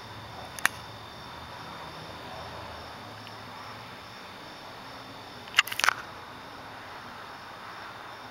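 Crickets chirping steadily, with a few sharp clicks: one just over half a second in and a quick cluster of several near six seconds.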